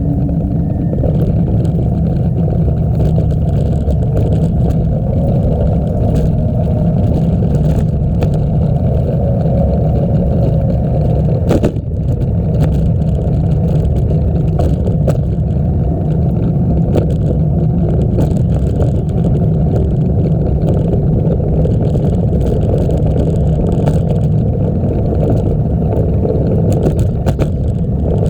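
Steady low rumble of wind buffeting the microphone and bicycle tyres rolling, with a brief dip about twelve seconds in.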